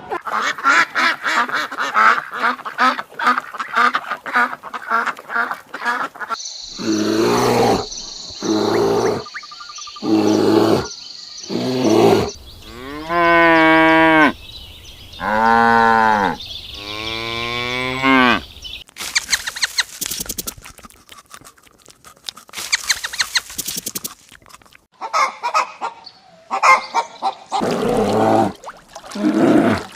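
Farm animals calling in a run of short clips, with three long calls in a row that rise and fall in pitch about halfway through.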